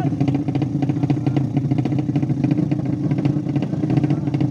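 200cc engine running steadily at an even speed, with a rapid, regular pulsing beat and no change in pitch.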